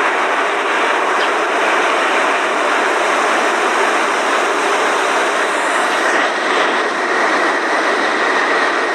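Boeing 747 jet engines running as a steady rush of noise, with a thin high whine coming in about six seconds in.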